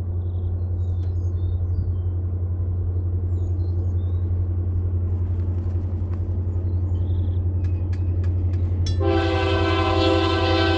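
Steady low rumble as a single-engine freight train approaches, then about nine seconds in the locomotive's air horn starts blowing a loud, held chord.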